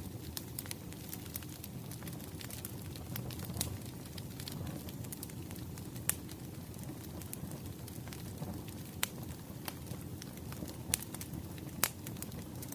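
Burning firewood crackling: a low steady rumble of flames with sharp pops scattered throughout, a few louder snaps in the second half.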